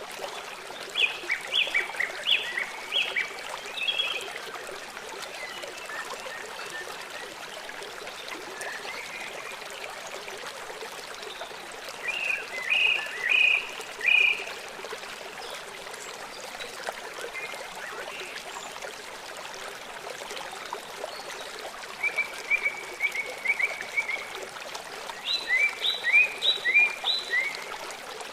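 Small songbirds chirping in short bursts of quick, repeated downward notes, with a brief rapid trill, over a steady background of running water. The bursts come near the start, in the middle and in the last few seconds.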